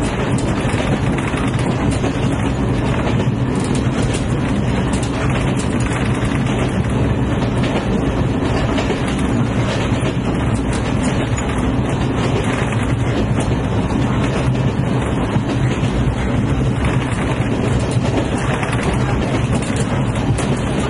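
A train running on rails: a steady, loud rumble with the rattle of the wheels and coaches.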